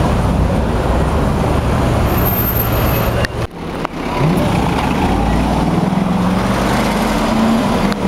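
Supercar engines running hard at speed, with a brief dip about three and a half seconds in, then one engine note climbing slowly in pitch as it accelerates.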